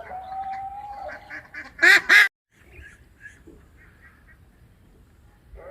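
Domestic ducks and geese calling: a run of quick calls, then two loud calls close together about two seconds in. The sound cuts out abruptly after them, and only faint scattered calls follow.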